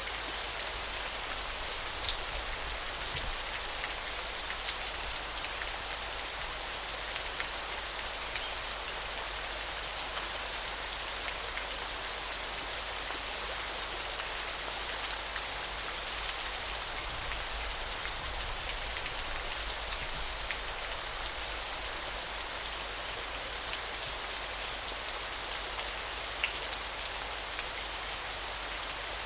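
River water flowing in a steady rushing hiss. A high, thin buzz repeats over it in even pulses, roughly every two seconds.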